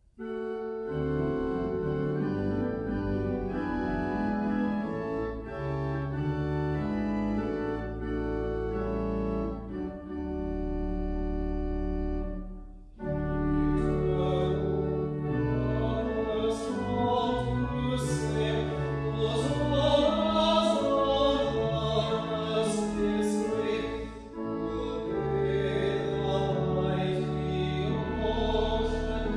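Organ playing sustained chords. About thirteen seconds in, singing voices with vibrato join it, accompanied by the organ.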